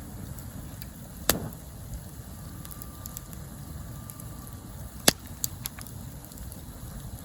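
Campfire burning with a steady low rumble, and two loud sharp pops from the burning wood, about a second in and about five seconds in, with a few smaller snaps after the second.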